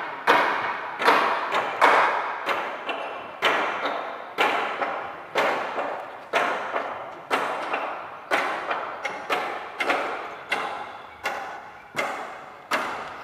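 A run of sharp thumps, roughly one a second, each dying away before the next.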